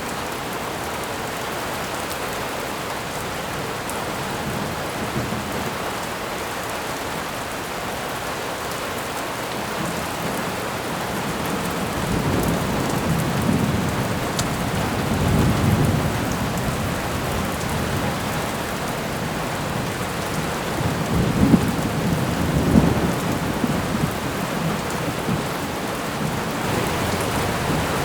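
Thunderstorm: steady rain with low rumbles of thunder that begin a little before halfway and swell twice, once in the middle and again later.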